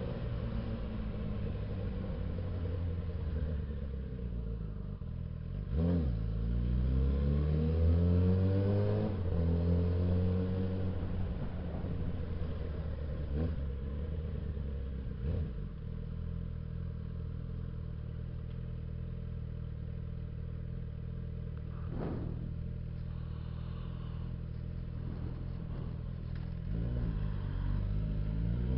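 Suzuki Bandit 650S inline-four engine under way, its pitch falling and climbing through gear changes early on, then holding a fairly steady note for a long stretch before rising again near the end. A few short knocks sound over it.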